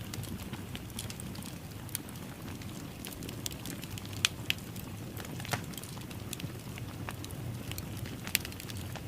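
Fire crackling in a fireplace: a steady low rumble of flames with scattered sharp pops and snaps. The loudest pops come a little past four seconds in and again near the end.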